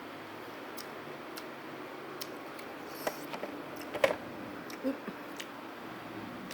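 Eating sounds: scattered small clicks and taps of chewing and utensils on food, with a sharper click about four seconds in and a brief slurp-like hiss just before it.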